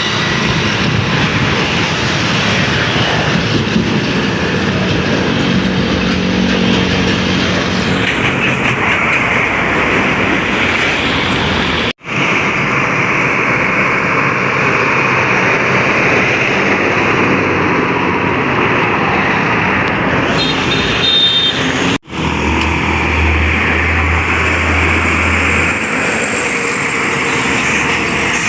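Heavy trucks passing on a highway: steady loud engine and tyre noise with a low engine drone now and then. The sound drops out abruptly twice, about twelve and twenty-two seconds in.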